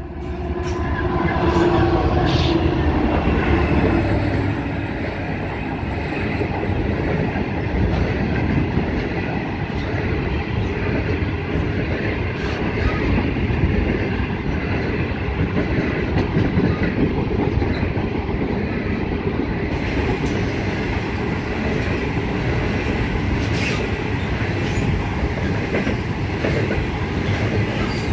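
An 82 class diesel locomotive passes close by, its engine note falling in pitch over the first few seconds. A long string of coal hopper wagons follows, rolling past with a steady rumble and wheel clatter, and a few sharp knocks.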